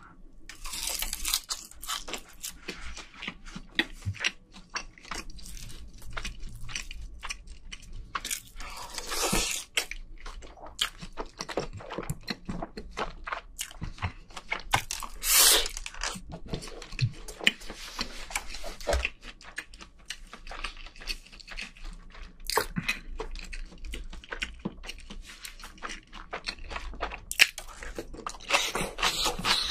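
Close-miked chewing and crunching as a person eats rice with chopsticks: a dense run of small wet clicks, with a few louder rushes of noise, the loudest about halfway through.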